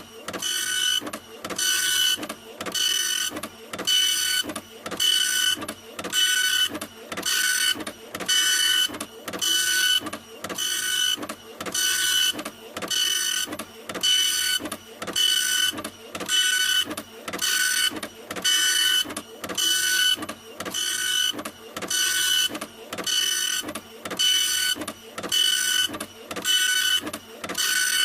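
Printer running continuously, its print head carriage travelling back and forth in an even rhythm of about one pass a second. Each pass carries a steady whine, with a short dip between passes.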